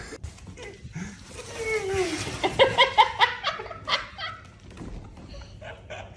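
People laughing: a run of quick bursts of laughter about two and a half seconds in, with a little more a second later.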